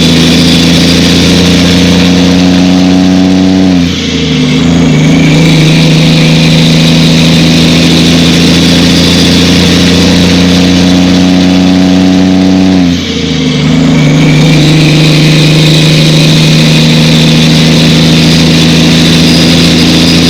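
Truck diesel engine pulling steadily through the gears: its note climbs slowly, then drops sharply with a brief dip in loudness at an upshift about four seconds in, and again about thirteen seconds in, before climbing again.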